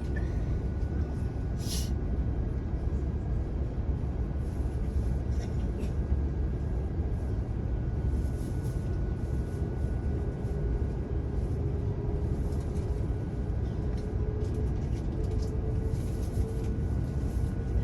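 Steady low rumble and hum inside a jet airliner's cabin on the ground before takeoff. A faint tone joins about halfway through and rises slightly near the end.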